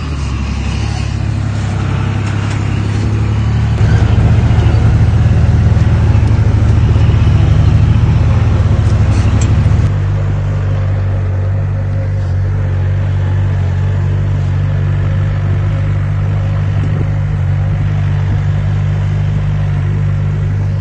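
Heavy diesel engine of construction machinery running with a deep, steady rumble. It grows louder about four seconds in, then changes abruptly near the middle to a steadier, somewhat quieter run.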